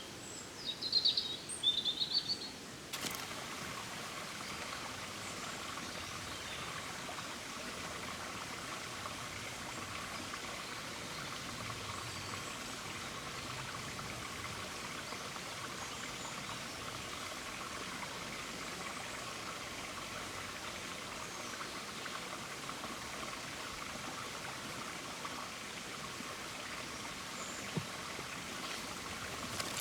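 A few bird chirps, then about three seconds in a steady rushing of running water starts abruptly and continues evenly.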